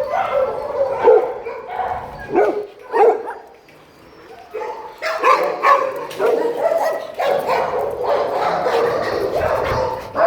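Dogs barking and whining: a few short calls in the first three seconds, then more continuous sound after a brief lull.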